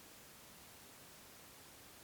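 Faint white noise: a steady, even hiss that does not change.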